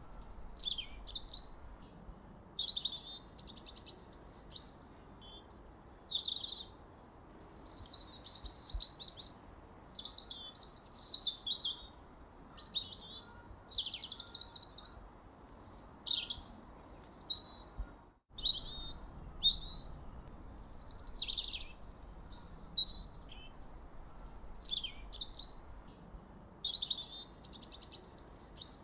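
Songbirds chirping and singing in quick, varied phrases of short notes, trills and falling whistles, with calls following one another almost without pause over a faint steady hiss. A brief break cuts through about two-thirds of the way in.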